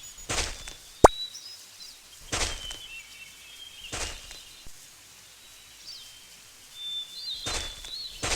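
Birds chirping, with several short whooshing bursts and one sharp click about a second in.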